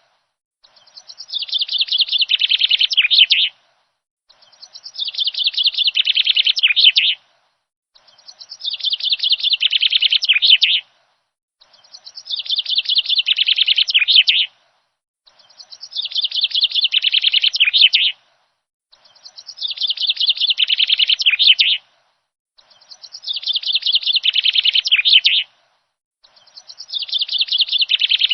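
Birdsong: a rapid run of chirps that builds in loudness over about three seconds, then stops dead. The same phrase repeats, identical each time, about every four seconds, with complete silence in between, like a looped recording.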